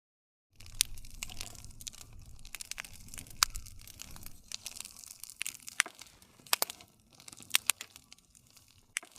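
Wood fire crackling and popping, with irregular sharp snaps over a low rumble of the flames. It starts after about half a second of dead silence.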